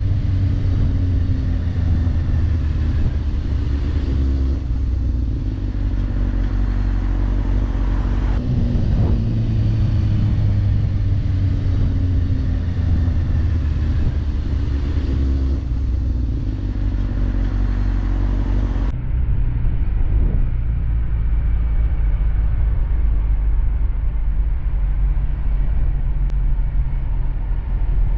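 Motorcycle engine running at speed with heavy wind rumble on the microphone; the engine pitch repeatedly falls slowly as the revs drop, and the sound changes abruptly twice.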